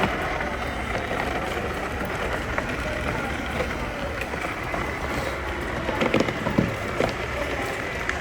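Radio-controlled truck driving: the faint whine of its small electric motor and gears over a steady noisy background, with a few knocks about six to seven seconds in.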